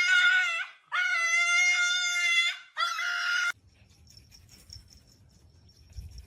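A pet animal howling: three long, drawn-out, even-pitched calls, the middle one the longest, stopping after about three and a half seconds.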